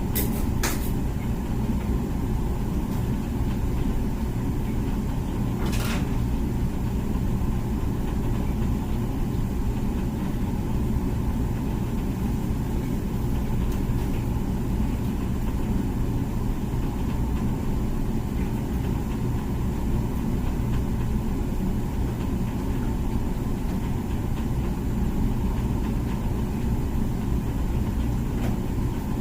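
Comfee dishwasher running mid-cycle: a steady low rumble and hum from its wash pump. Two short clicks come, one just under a second in and one about six seconds in.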